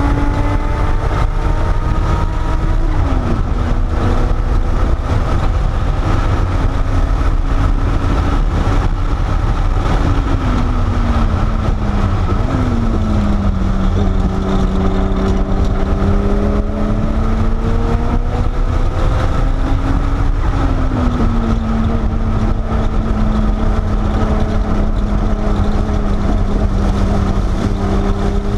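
Porsche 930 Turbo's turbocharged air-cooled flat-six heard from inside the cabin under hard driving. Its pitch climbs and then drops sharply several times as the car accelerates and shifts or lifts, over a heavy low road and wind rumble.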